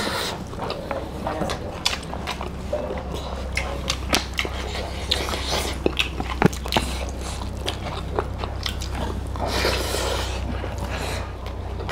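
Close-miked chewing and eating sounds of two people eating rice and pork and beef curry by hand: many short, sharp mouth clicks and smacks over a low steady hum.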